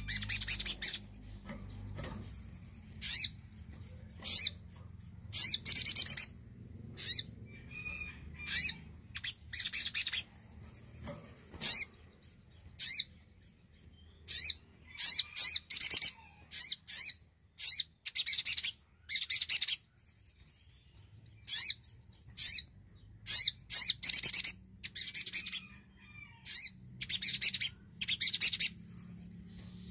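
Sogon (sogok ontong), a spiderhunter, calling: a long run of sharp high-pitched chirps and short rapid trills at irregular intervals, with a thin, steady high whistle held between some of the calls.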